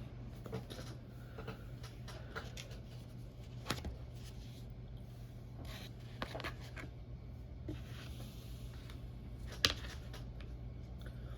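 Someone eating pancakes: soft scraping of cutlery on a plate and quiet chewing, with two sharper clicks about four and ten seconds in, over a steady low hum.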